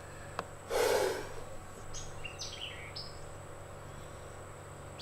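A sharp click, then a brief rush of noise about a second in, followed by a bird calling a few quick notes that slide downward in pitch around two to three seconds in.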